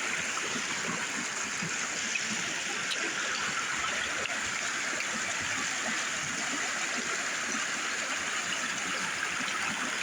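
Shallow river or stream running steadily over stones, a continuous rushing babble.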